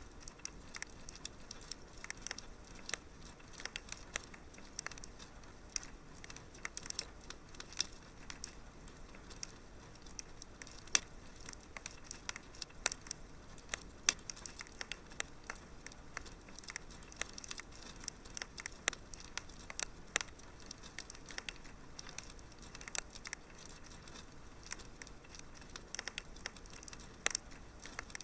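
Fire crackling in a fireplace: quick, irregular snaps and pops over a soft, steady hiss.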